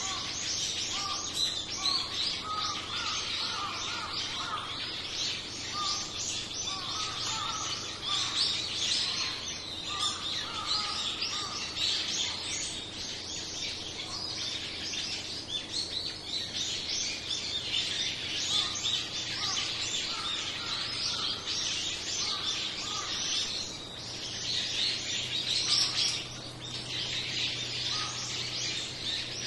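A flock of small songbirds chirping and calling over one another without a break, many short high chirps at once, with a run of lower repeated calls in the first half.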